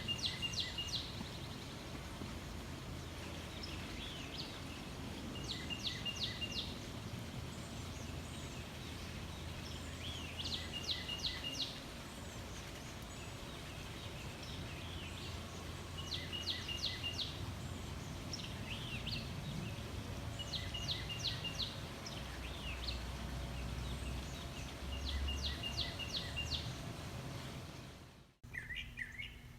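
A songbird singing a short phrase of several quick high notes, repeated about every five seconds, over a steady low background rumble. Near the end the sound cuts off abruptly, and different bird chirps follow.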